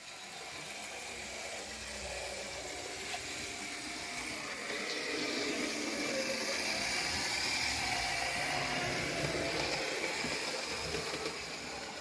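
Small electric motor of a PIKO HO-scale electric locomotive running on the track, a steady whirring that slowly grows louder and wavers in pitch, then stops abruptly.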